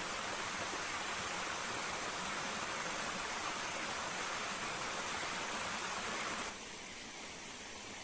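Steady rushing of a waterfall. It drops abruptly quieter about six and a half seconds in.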